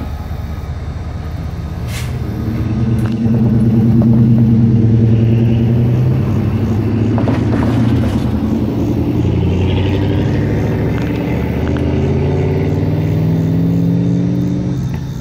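Diesel locomotive engine running hard close by, growing louder about two seconds in and holding a deep droning note that shifts slowly in pitch. A few sharp knocks are heard along with it.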